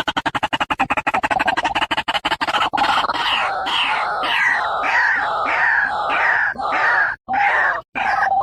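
White-breasted waterhen calling: a fast rattling run of notes, then from about three seconds in a steady series of separate calls, about two a second.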